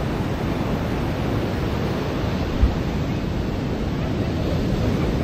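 Ocean surf washing onto a beach: a steady rush of noise, with one brief low thump about halfway through.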